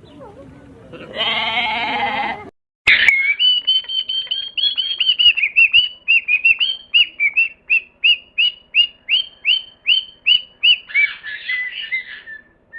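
A short bleat. Then a bird calling: a long run of short, high, down-slurred notes, about two to three a second, for about nine seconds.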